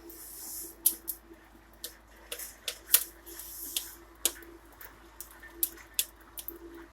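Wood fire burning in a brick fireplace's firebox: firewood crackling with irregular sharp pops and snaps, and short stretches of hissing.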